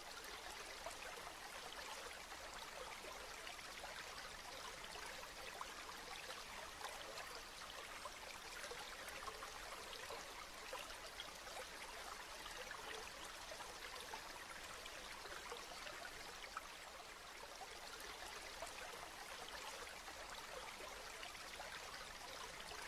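Steady rain falling, a continuous hiss peppered with many small drop ticks.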